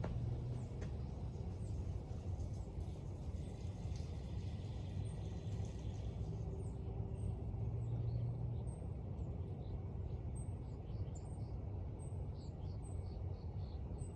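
A steady low rumble throughout. From about halfway in, a small bird repeats short, high chirps.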